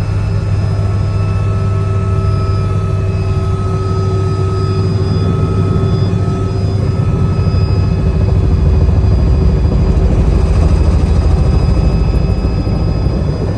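Helicopter running: a loud, steady low drone from the rotor and turbine engine, with a few steady whining tones above it. It grows a little louder about eight seconds in.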